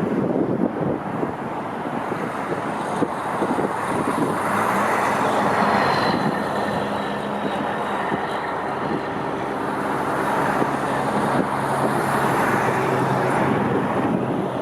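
Jet airliner engine noise: a steady rushing roar with a faint high whine that glides slightly down in pitch about six seconds in.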